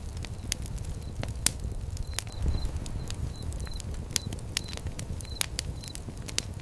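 Fire pit fire crackling, with sharp irregular pops over a low, steady rumble of flame.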